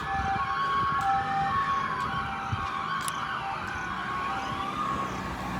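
Several fire truck sirens sounding at once: a hi-lo siren alternating between two notes about every half second, over wailing sirens that rise and fall. The two-tone note drops away near the end as a low engine rumble comes up.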